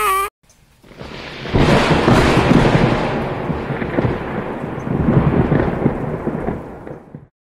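Thunder sound effect: a rumble that builds about a second in, breaks loud at about a second and a half, rolls on with uneven surges, and cuts off abruptly near the end.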